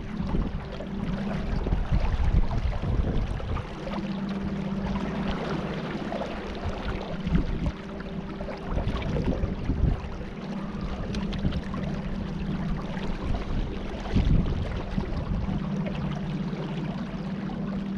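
A boat motor running at a steady pitch while under way on the river, with water rushing past and wind buffeting the microphone now and then.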